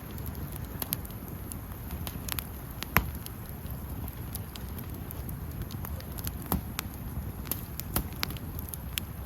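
Wood campfire crackling, with irregular sharp pops and one louder pop about three seconds in, over a low steady rumble.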